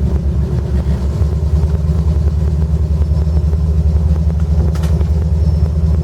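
Off-road 4x4 truck's engine running with a steady low rumble under load as the truck tries to drive off a slippery side hill, getting a little heavier about a second in. A single sharp click near the end.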